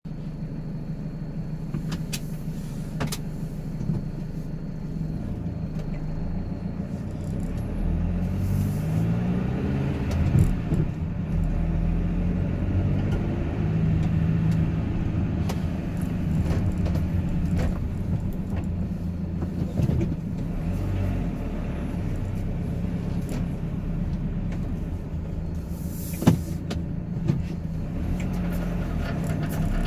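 A car driving: its engine runs steadily under road noise, and the engine note climbs as the car accelerates about eight to twelve seconds in. There are a few sharp clicks, with the loudest knock late on.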